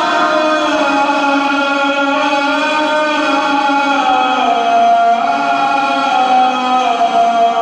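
A male muezzin chanting the adhan (Islamic call to prayer) solo: one long, ornamented held phrase that steps slowly down in pitch.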